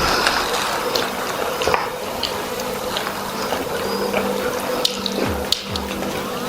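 Steady rush like running tap water, with scattered small clicks and a faint steady hum.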